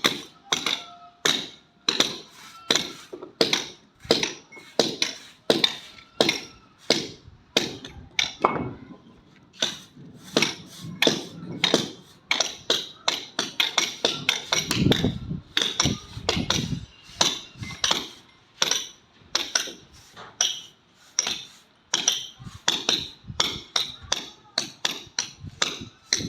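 A hammer striking again and again, about two blows a second, each a sharp knock with a short ring.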